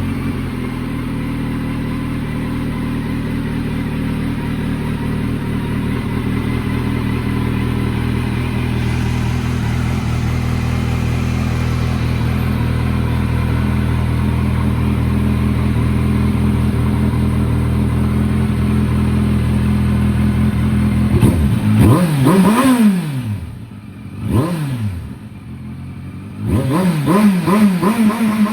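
Kawasaki Z900's inline-four engine through an SC Project aftermarket exhaust, idling steadily for about twenty seconds, then revved in a series of quick throttle blips near the end, the pitch rising and falling with each.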